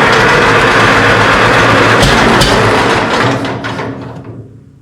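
Minneapolis Moline tractor being cranked over, loud and steady, then fading away from about three seconds in without catching; the owner takes the engine for flooded.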